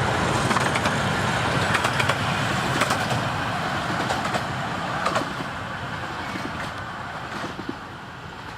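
Coaches of a long 15-inch-gauge miniature railway train rolling past, a steady rumble with scattered sharp clicks from the wheels, slowly fading as the train moves away.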